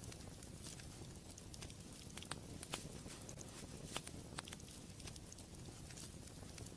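Wood fire in a fireplace crackling: scattered small pops and snaps over a low steady rumble, with a few sharper pops in the middle.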